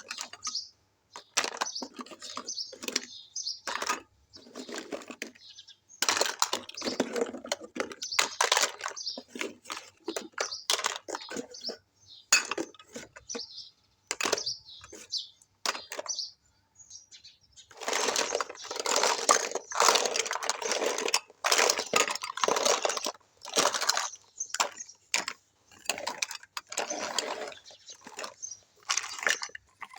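Small plastic toy kitchen pieces and their packaging being handled close to the microphone: many light clicks and taps, with two longer stretches of dense rustling, about six seconds in and again from about eighteen seconds.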